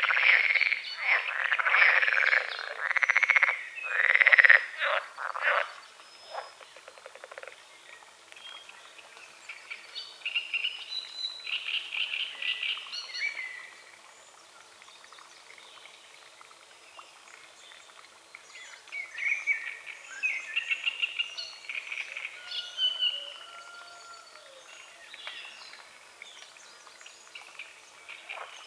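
Frogs croaking loudly in a chorus of repeated bursts for the first six seconds or so, then stopping. After that, birds sing in short, quieter chirping phrases.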